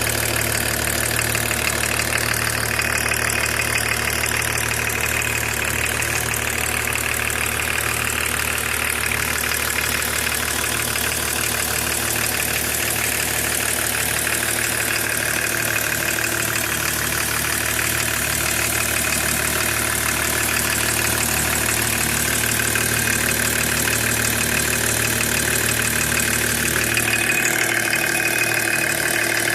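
BMW E36 325td's 2.5-litre turbodiesel straight-six idling steadily; its deep hum drops away near the end.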